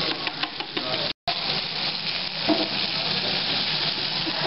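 Breaded chicken cutlets sizzling in hot oil in frying pans: a steady hiss with small crackles in the first second. It cuts out for a moment about a second in.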